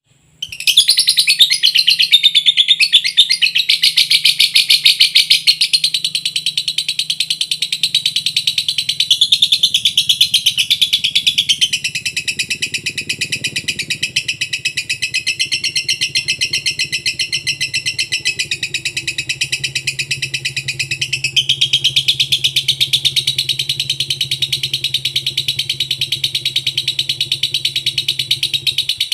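Lovebird singing one long unbroken song of rapid chattering trills that barely pauses, with a faint low hum underneath.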